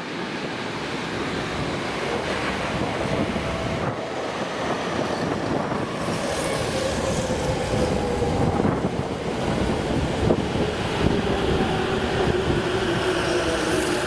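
A train running along the platform tracks, its wheels rumbling and clattering on the rails, with a whine that slowly falls in pitch over the second half.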